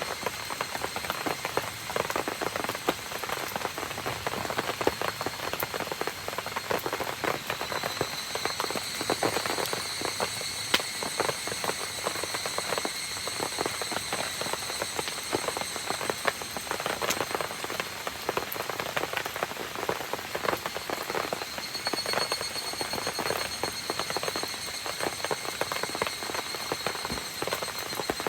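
Steady rain falling, an even hiss with dense sharp ticks of drops hitting surfaces. A faint high, steady trill sits above it and grows stronger twice, about a third of the way in and again near the end.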